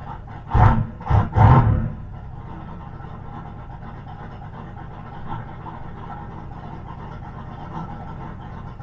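Turbocharged 351 Windsor V8 blipped three times in quick succession early on, then running at a steady idle. It is not yet up to temperature and struggles to keep idling on E85, which the owner puts down to being nearly out of fuel.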